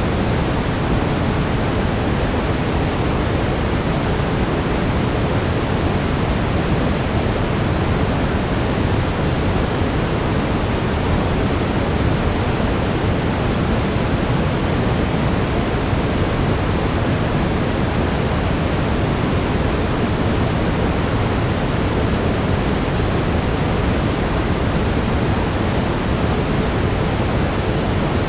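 Steady brown noise: an even, unbroken low rushing hiss, strongest in the bass.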